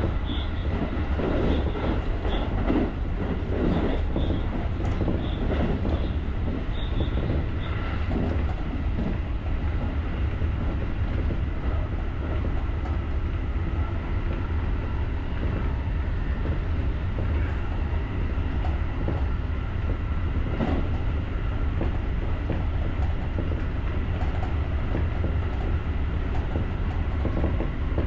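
JR rapid electric train running on the line, a steady low rumble with the wheels clattering over the rails, busiest in the first eight seconds. Over those first eight seconds a faint high ding also repeats about twice a second.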